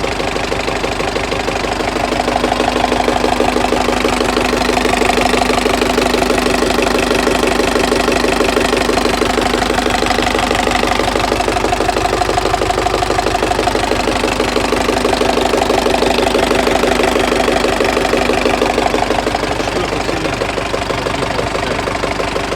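Diesel engine running at idle with a fast, even knocking clatter. It gets a little louder from about two seconds in and settles back near the end. It is a knock that has recently appeared in the engine.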